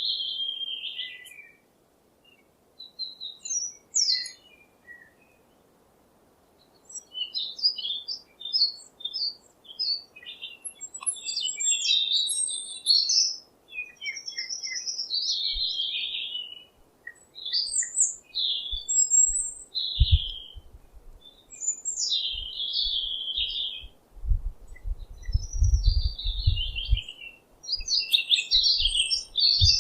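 Birds chirping and twittering in quick, short high calls and trills, with a couple of brief pauses. Low rumbling thumps come in about two-thirds of the way through.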